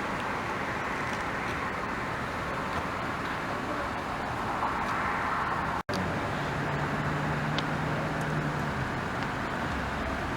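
Road traffic on a city street: a steady wash of tyre and engine noise, with a low engine hum holding for a few seconds after a brief dropout past the middle.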